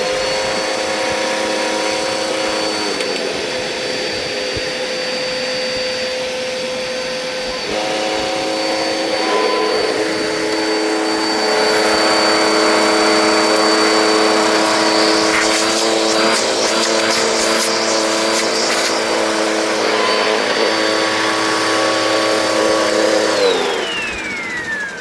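Hoover Nano Cyclonic upright bagless vacuum cleaner running at full speed with a steady high whine; its tone shifts about a third of the way in, and a scatter of clicks comes through the middle. Near the end it is switched off and the whine falls away as the motor spins down.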